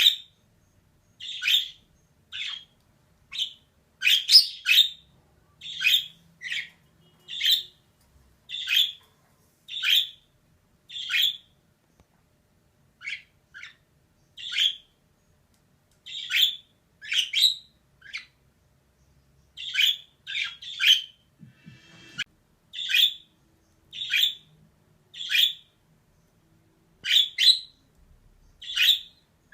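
Female budgerigar giving short, sharp chirping calls, about one a second, some in quick pairs, with a few brief pauses.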